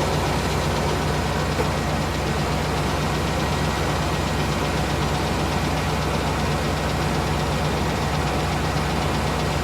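1998 GMC Savana's 5.7-litre V8 idling steadily while still warming up after a cold start, with a faint tick from the engine that the owner thinks may be a hydraulic lifter.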